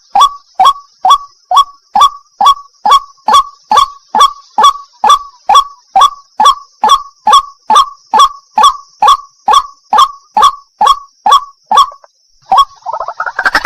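White-breasted waterhen (wak-wak) calling: a fast, even series of short notes, each dropping in pitch, about two and a half a second, over a steady high hiss. The series stops about twelve seconds in, and a different, louder call that rises in pitch begins just before the end.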